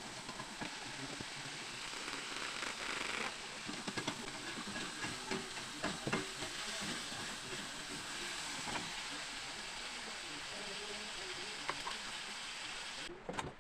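Sambal with petai (stink beans) sizzling as it fries in a pan, with scattered clicks of a spatula stirring it. The sizzling cuts off suddenly near the end.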